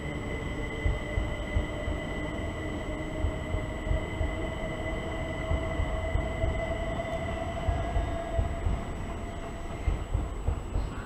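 Electric passenger train on the far tracks, a steady motor whine that rises slowly in pitch and fades near the end, over a low rumble.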